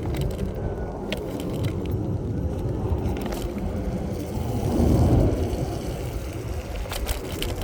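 Low, steady rumble of riding an InMotion Climber electric scooter on a snowy road, with road noise and air rushing past the microphone. The rumble swells briefly about five seconds in.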